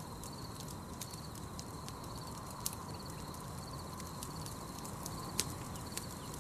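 Campfire crackling with scattered sharp pops, the loudest about 2.7 s and 5.4 s in, over a steady hiss. A continuous high, pulsing insect trill runs behind it.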